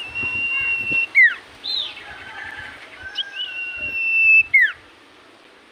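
Common iora (cipoh) singing: two long, level whistles, each ending in a quick downward slur, with a short arched note and a lower whistle between them.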